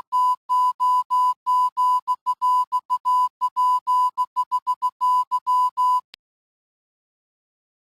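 Morse-code-style beeping: a single high electronic tone keyed on and off in a run of short and long beeps, stopping about six seconds in.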